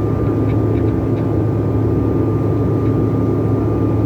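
Steady drone of an airplane in flight heard inside the passenger cabin: a constant low engine and airflow hum with a thin steady whine above it.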